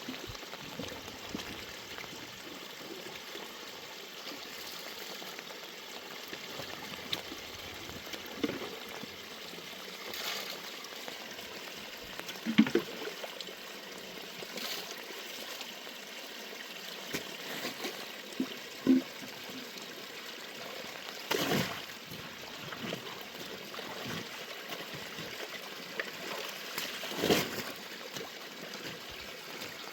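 Water running steadily, with about five short, louder sounds scattered through it.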